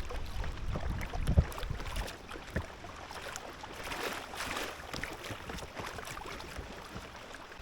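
Kayak paddling: the paddle dipping and splashing, water dripping, and small knocks against the hull, with wind rumbling on the microphone in the first couple of seconds.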